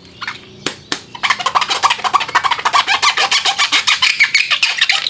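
Chicken clucking in a fast, dense run that starts about a second in and cuts off suddenly at the end, after two sharp clicks in the first second.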